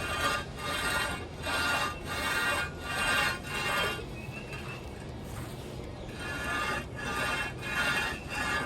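Cast-iron Ford Model A manifold scraped back and forth on rough concrete, a run of rasping strokes under a second each, a pause of about two seconds midway, then more strokes. The concrete is sanding the flange faces flat, taking down the high spots of the warped manifold first.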